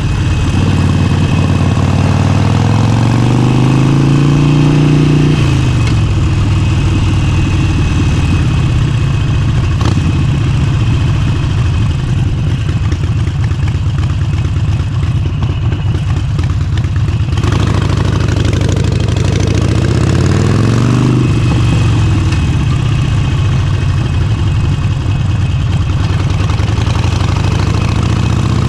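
Motorcycle engine on the move, rising in pitch as it pulls through a gear and dropping sharply at a shift about five seconds in, then running steadily, with a second short rise and shift a little past twenty seconds.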